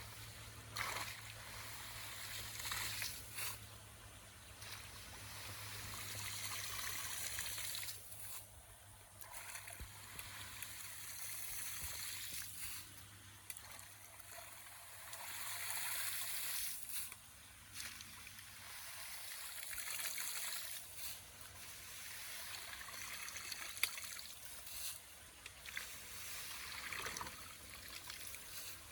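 Water trickling and splashing through a debris-clogged culvert drain, swelling louder and fading again every few seconds.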